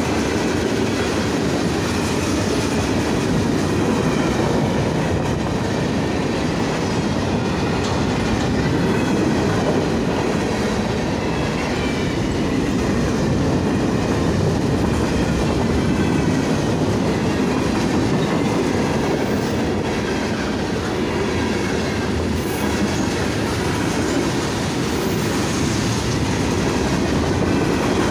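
Freight cars of a CSX train rolling steadily past at close range: a continuous rumble and clatter of steel wheels on the rails.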